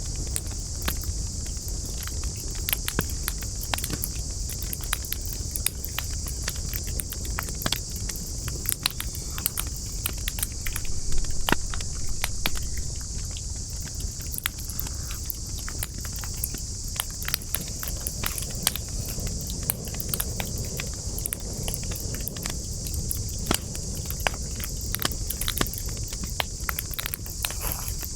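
Wood campfire burning, crackling with frequent sharp pops over a steady high hiss and a low rumble; a louder flurry of crackles comes about eleven seconds in.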